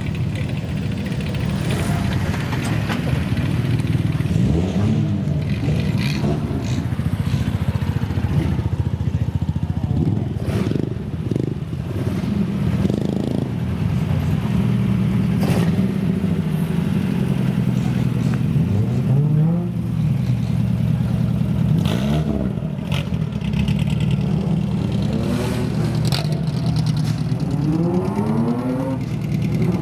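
Loud exhausts of custom old vehicles running with a deep steady rumble, revved in short blips several times, with a longer rising rev near the end as one pulls away.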